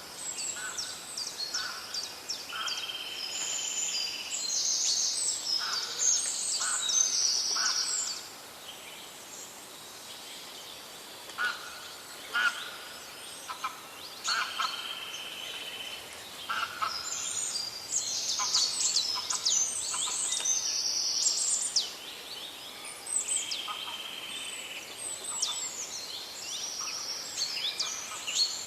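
Several songbirds chirping and singing: many quick, high, downward-sweeping notes and buzzy trills overlapping, with a lull of a few seconds about eight seconds in before the calls resume.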